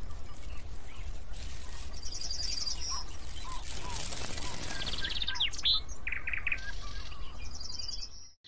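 Birds chirping and calling, with short rapid trills about two seconds in and again near the end, and quick falling whistles, over a steady low rumble; it all cuts off abruptly just before the end.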